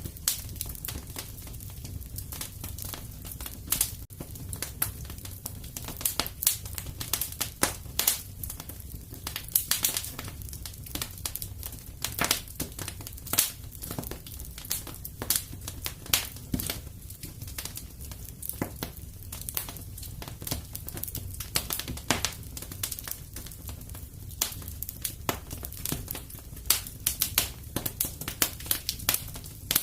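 Wood fire crackling in a fireplace: many sharp, irregular pops and snaps over a low steady rumble of burning.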